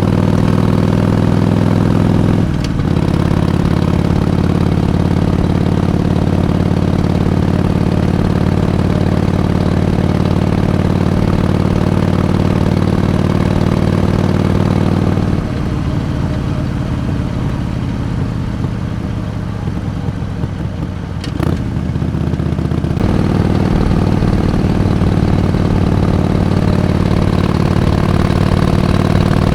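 Harley-Davidson Iron 883's air-cooled V-twin running steadily under throttle while riding, with a brief break about two and a half seconds in. About halfway through it drops back quieter for roughly seven seconds, with one click near the end of that stretch, then pulls strongly again.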